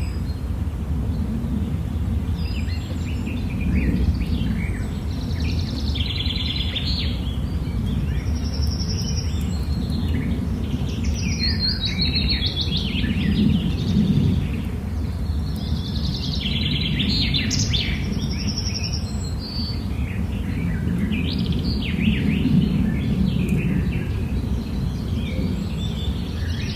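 Songbirds singing, phrases of quick chirps and trills that come and go every few seconds, over a steady low background rumble.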